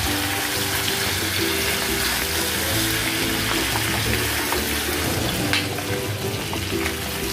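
Whole shrimp sizzling as they fry in garlic butter in a nonstick pan, turned now and then with a spatula that gives a few light clicks. Background music plays under it.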